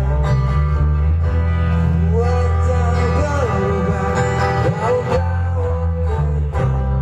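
A song with a singing voice, guitar and heavy bass, played loud through a sound system under test.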